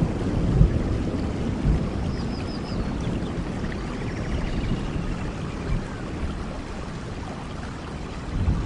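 Steady rain falling, with a low rumbling undertone that slowly eases over the first few seconds.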